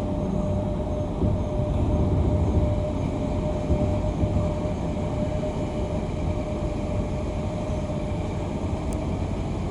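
Sydney Light Rail L4 tram's cabin noise: a steady low rumble with a constant humming tone over it.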